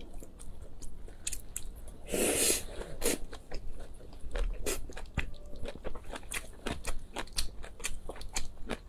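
Close-miked eating sounds: a person biting and chewing food, with crunching and many short sharp mouth clicks, loudest about two seconds in.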